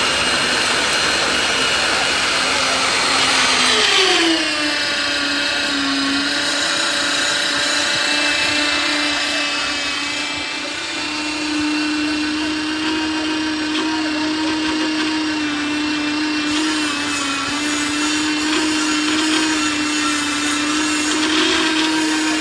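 A small motor running steadily with a whine, which drops to a lower pitch about four seconds in and then holds steady.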